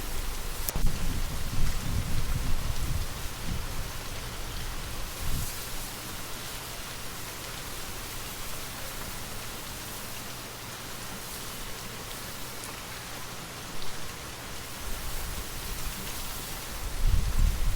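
Steady gentle rain, a soft even hiss with occasional individual drops ticking. Low, gusty rumbles of wind swell up in the first few seconds and again near the end.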